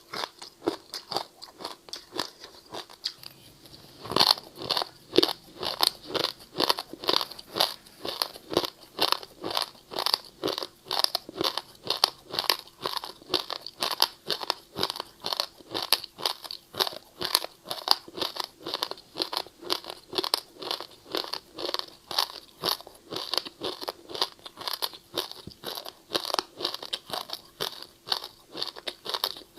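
Ice being bitten and chewed close to the microphone: a steady run of sharp, crunchy bites about two to three a second, louder from about four seconds in.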